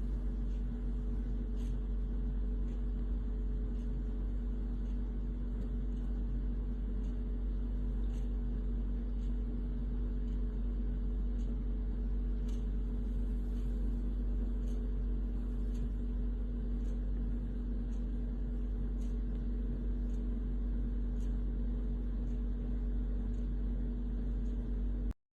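A steady low hum and rumble with two constant tones, unchanging throughout, with faint light ticks scattered over it.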